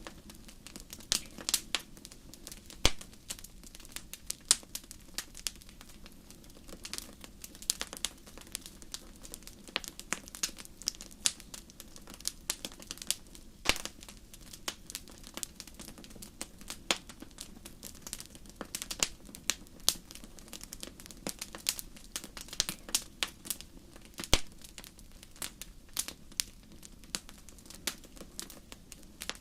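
Wood fire crackling in a fireplace: irregular sharp pops and snaps, several a second at times, over a steady low rumble of the burning fire.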